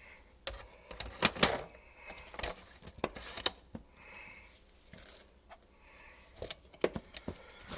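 Irregular clicks, knocks and light rattles of small hard parts being handled.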